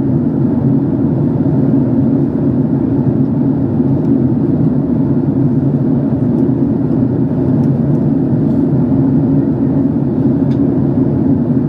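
Boeing 767-300 airliner cabin noise in flight: a steady low rumble of engines and airflow heard from inside the passenger cabin.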